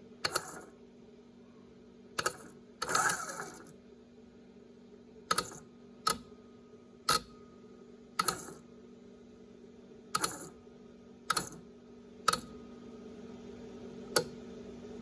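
Ramsey 12,000 lb worm-gear winch being bumped in short taps: about eleven sharp clicks at uneven spacing, one a little longer about three seconds in, over a steady low hum.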